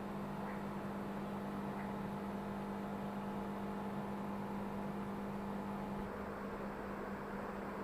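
Steady electrical hum with a low tone and a hiss over it, unchanging throughout.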